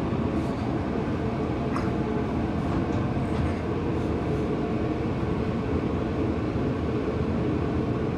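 A steady low rumble, with a few faint light clicks from a wrench working the shifter's 12mm bolt loose.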